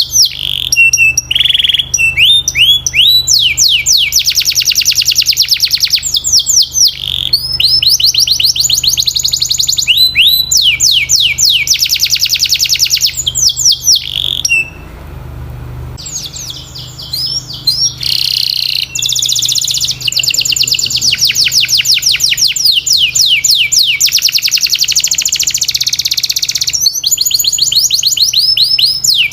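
Domestic canary singing: long, fast trills of high, repeated downward-sliding notes, broken by a short pause about halfway through.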